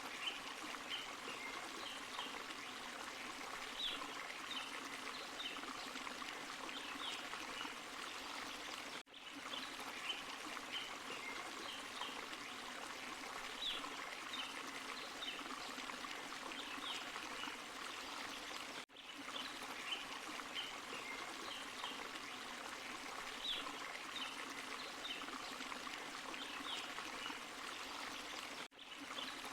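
A small forest waterfall and stream, water running and splashing steadily with small splashes flecked through it. The sound drops out for an instant about every ten seconds, where the same short recording repeats as a loop.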